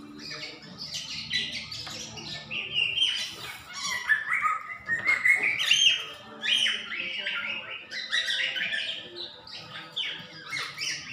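A bird chirping and chattering: a rapid, unbroken run of short high calls and squawks, some gliding down in pitch.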